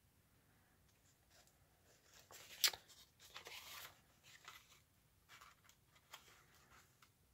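Paper being handled: faint rustling, scraping and light taps as paper tags are slid into envelope pockets, starting about two seconds in, with one sharper click a little later.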